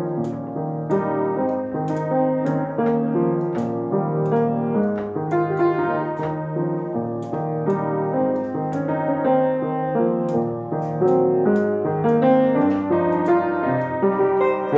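Solo piano music: a steady stream of notes with a bass line.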